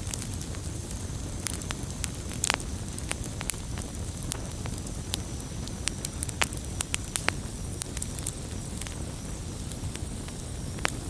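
Wood logs burning in a fireplace: a steady low rush of flame with irregular sharp crackles and pops, one of the louder pops about two and a half seconds in.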